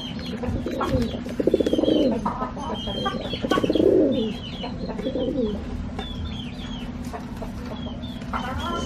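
Pigeons cooing: three low, throaty calls that drop in pitch, the last one short, with small birds chirping high and busily throughout.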